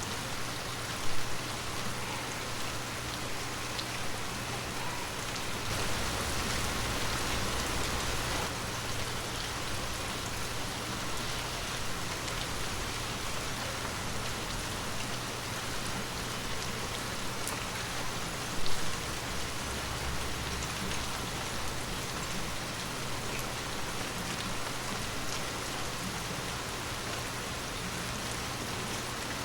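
Heavy rain falling steadily, its hiss swelling a little for a couple of seconds about six seconds in. Two brief, sharper knocks stand out above it, one about a second in and one a little past halfway.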